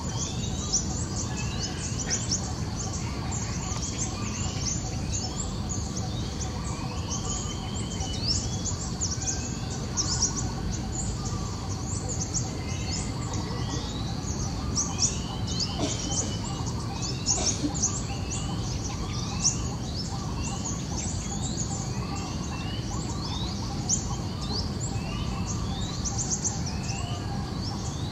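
Small birds chirping continuously, many short rising and falling chirps overlapping, over a steady low background rumble.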